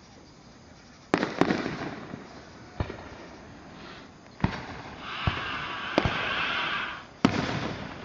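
Aerial fireworks going off: a string of sharp bangs, the first about a second in, with a dense hiss from about five to seven seconds in before another loud bang.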